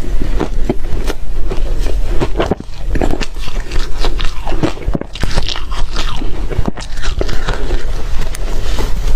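Close-up biting and crunching of reshaved refrigerator ice, a dense run of irregular crackling crunches.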